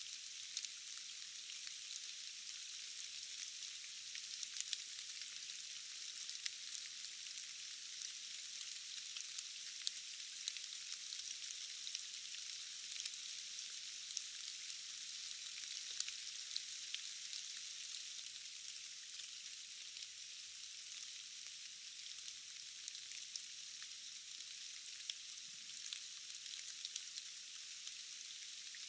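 Steady rain falling in a forest: an even, high hiss with many small drop ticks scattered through it, thin and without any low rumble.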